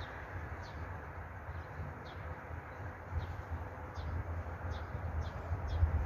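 A small bird chirping repeatedly, short high chirps about one or two a second, over a gusty low rumble.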